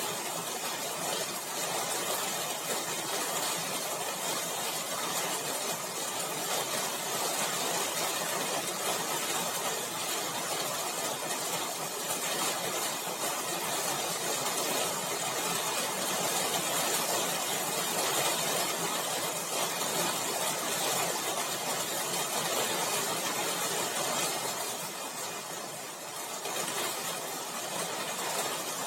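A steady machine noise: a motor running with a continuous hiss, easing briefly about 25 seconds in before picking up again.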